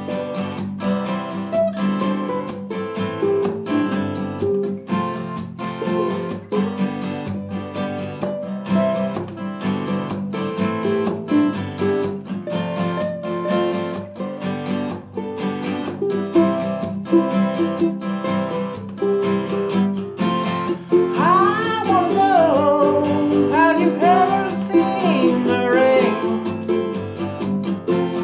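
Acoustic guitar and ukulele strumming chords in a steady rhythm. About three-quarters of the way through, a voice joins, sliding between notes without clear words.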